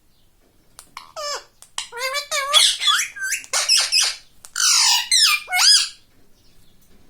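Pet parrot squawking and chattering: a quick run of short, shrill calls that slide up and down in pitch, starting about a second in and stopping near the end.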